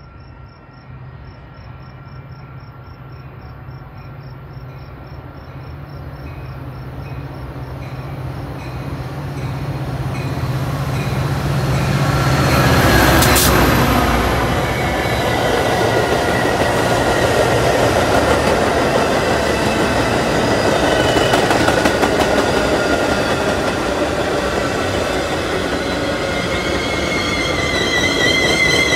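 Metra commuter train approaching and running past, with a bell ringing rapidly as it nears. The rumble builds to its loudest as the locomotive passes about 13 seconds in. The bilevel passenger cars then roll by steadily, their wheels squealing near the end.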